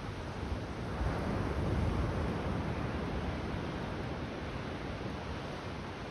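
Ocean surf washing onto a beach. One wave swells about a second in, then slowly dies away.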